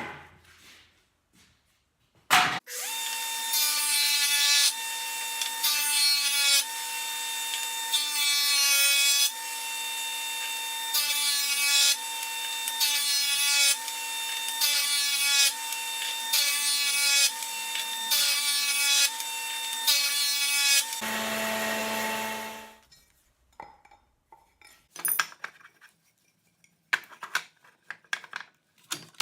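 Power tool working a block of walnut: a steady motor hum with repeated cutting or sanding strokes about once a second. The tool switches off about two-thirds of the way through and winds down, followed by scattered knocks and clicks.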